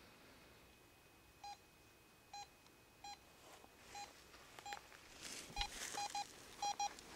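Electronic EMF meter giving short beeps, all at the same pitch, at uneven intervals, a few in the first half and then coming faster after about five seconds. This is the meter's alert that it is picking up an electromagnetic field. A brief rustle sounds about five seconds in.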